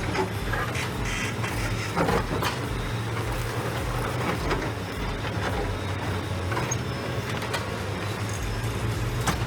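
Caterpillar D8R bulldozer's diesel engine running steadily as it pushes a boulder, with a few sharp knocks, the loudest about two seconds in and another near the end.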